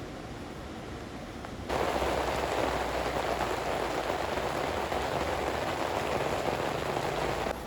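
Heavy rain falling steadily, which turns suddenly louder and denser about two seconds in and drops back abruptly near the end.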